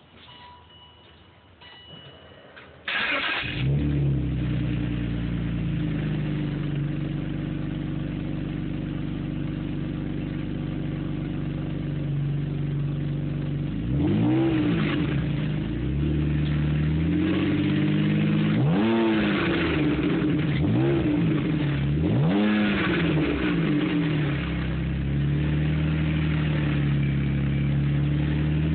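BMW 530i engine through a custom dual exhaust starting about three seconds in and settling into a steady idle with a deep, mellow tone. Midway it is revved four times, each rev rising and falling back, before it returns to idle.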